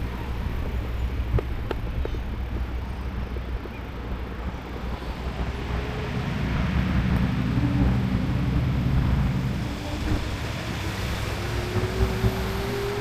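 Road traffic passing: a motor vehicle's engine grows louder through the middle, then another engine's pitch rises slowly near the end, over a steady low rumble.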